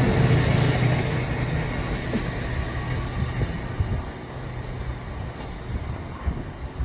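Passenger train pulling away after a signal clears, its low traction hum and running noise steadily fading as it moves off.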